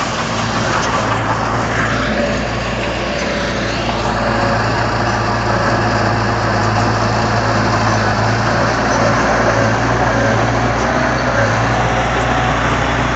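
Heavy diesel earth-moving machinery running steadily, a loud, constant engine drone with some clattering noise over it.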